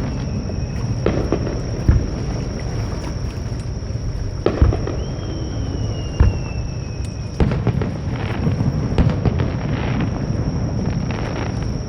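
Fireworks display: shells bursting with a string of irregular booms and bangs over a steady low rumble. A high whistle falls slowly in pitch about five to seven seconds in.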